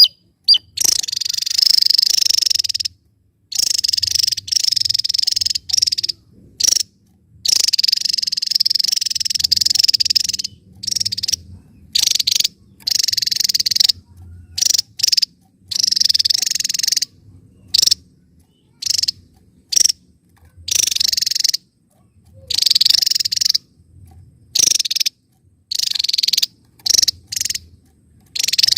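Javan tesia singing: dense, high-pitched trilling phrases in repeated bursts of one to three seconds, separated by short gaps of silence.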